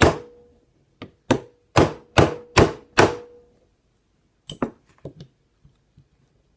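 Hammer striking to drive a tight pin out of an M&P Shield 9mm pistol's frame: a hit at the start, then five sharp, ringing strikes about two a second. These are followed a second later by a few faint metallic ticks. The pin is hard to move because the gun is new.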